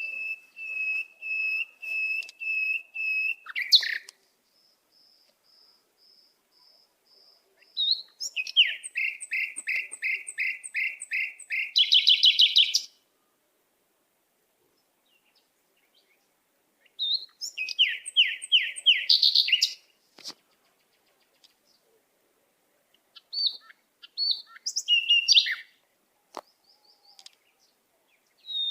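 A bird singing in series of clear, high, repeated notes. First comes a string of even notes at about two a second. After a pause there is a faster run of louder notes that climbs in pitch at its end. Two shorter bursts of mixed notes follow, with silent gaps between the phrases.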